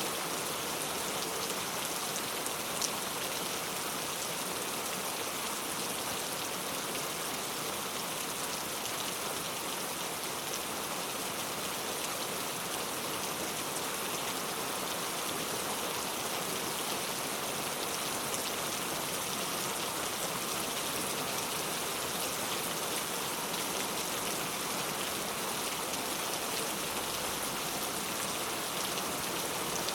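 Steady heavy rain: a dense, even hiss of falling drops hitting surfaces, with one faint click about three seconds in.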